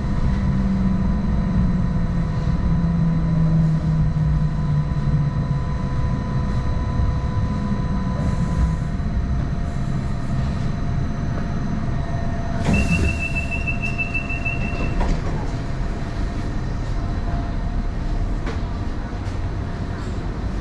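Hong Kong Light Rail Phase I light rail train running with a steady low rumble, its motor tone falling in pitch over the first few seconds. About 13 seconds in, a high-pitched wheel squeal lasts about two seconds.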